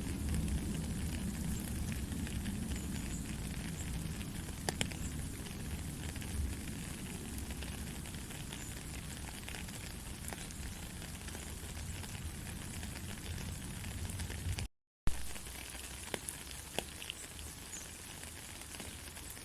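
Gentle rain falling steadily, a dense hiss with scattered drop ticks. About fifteen seconds in the sound cuts out for a moment and comes back with a sharp click, after which the low rumble under the rain is gone.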